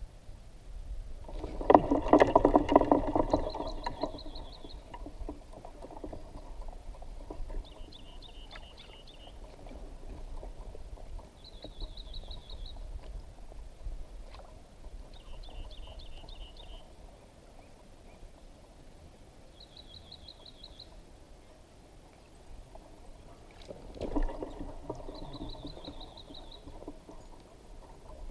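A small bird repeats a short, high trilled call about every four seconds. Two louder stretches of rapid rattling come from close by, the loudest about two seconds in and another near the end.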